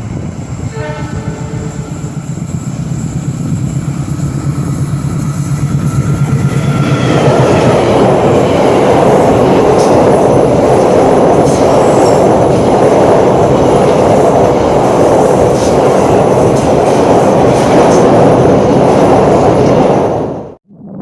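Train approaching with a steady low locomotive hum, then from about seven seconds in passing close by in a loud rumble with wheel clatter on the rails over a railway bridge. The sound cuts off suddenly near the end.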